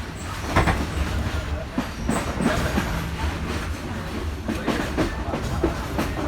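Passenger train carriage running along the track: a steady low rumble with irregular clattering knocks from the wheels on the rails.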